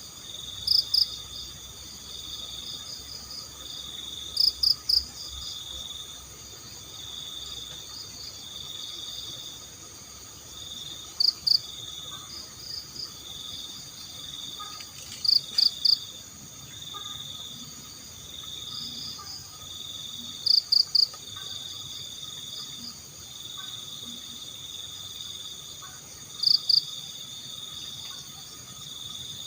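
Night insect chorus of crickets: a steady pulsing high trill, broken every few seconds by a loud, short group of two or three sharper high chirps.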